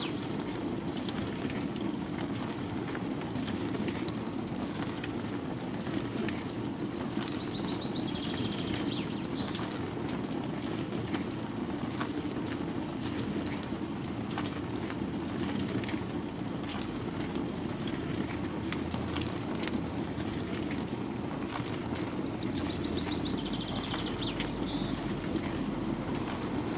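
Bosch WAN28220FF front-loading washing machine in its synthetics 40 °C wash: steady tumbling with water sloshing in the drum and light clicks. A short high chirp recurs twice.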